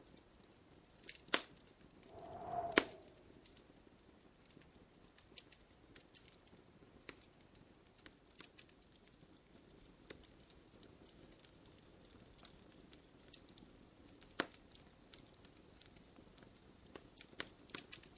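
Wood fire crackling in a fireplace: irregular sharp pops and snaps over a soft hiss, the loudest two in the first three seconds and another about fourteen seconds in. A brief hooting tone sounds about two and a half seconds in.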